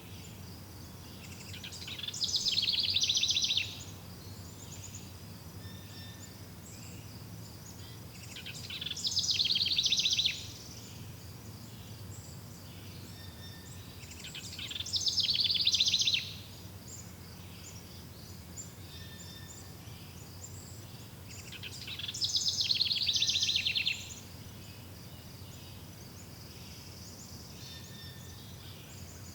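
Forest birdsong: a bird's loud rapid trill comes four times, every six or seven seconds, each one swelling and then stopping abruptly. Faint scattered bird chirps sound between the trills, over a steady low background hum.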